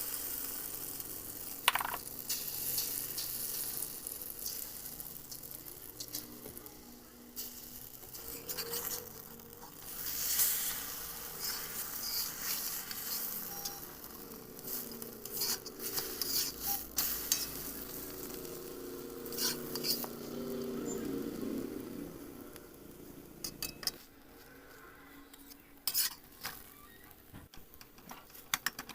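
Food sizzling as it fries in a pan, with a spatula or spoon repeatedly scraping and clicking against the pan as it is stirred and turned.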